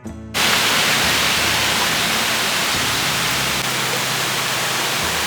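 Heavy monsoon rain pouring down, a loud steady hiss that cuts in abruptly just after the start.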